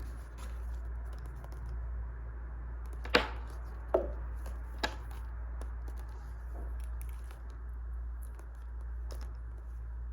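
Wood fire crackling over a steady low rumble, with three sharp pops less than a second apart about three seconds in, the first the loudest.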